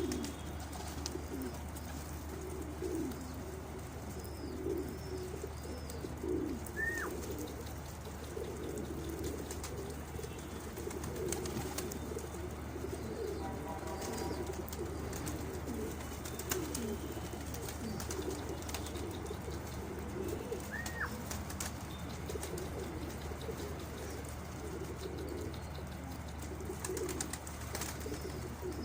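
A flock of domestic pigeons cooing continuously, many birds overlapping. Twice a short high chirp cuts through, and a steady low hum runs underneath.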